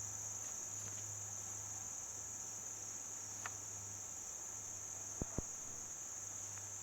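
A steady, high-pitched insect chorus trilling without a break, with a couple of faint ticks a little past the middle.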